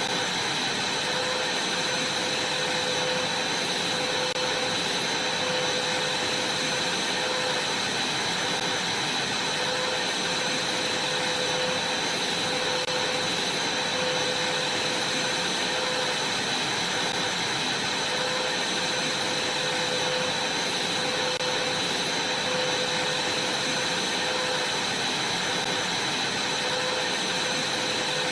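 Vacuum cleaner running steadily, its motor giving a constant high whine over the even rush of air.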